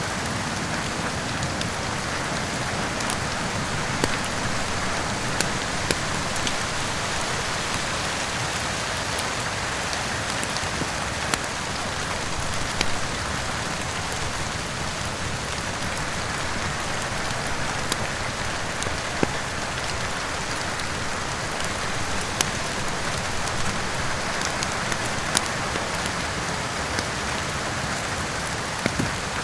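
Steady rain, with the scattered sharp pops and crackles of a wood fire burning in a fireplace.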